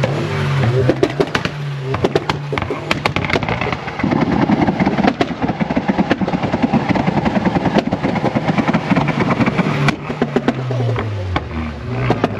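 A car engine revving hard, with many sharp crackles and pops from the exhaust; the revs fall away near the end.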